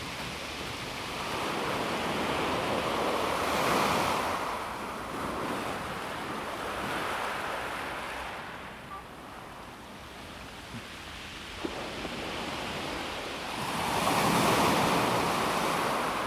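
Calm sea waves washing in and out over a pebble beach, swelling loudest about four seconds in and again near the end, with a quieter lull between.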